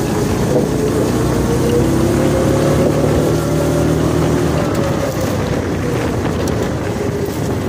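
Stock Predator 420cc single-cylinder four-stroke engine on a go-kart running under throttle, its pitch climbing over the first few seconds and then easing off a little.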